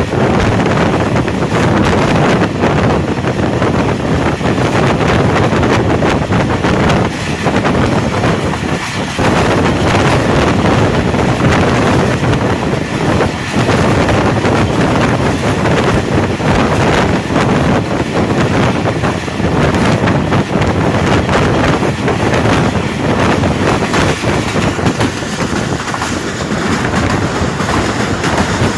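Passenger train running at speed, heard from an open coach window: a steady rumble of the wheels on the track mixed with wind buffeting the microphone.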